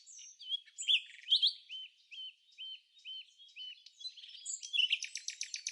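Songbirds chirping and singing: a run of short, evenly repeated notes, about two a second, then a fast trill near the end.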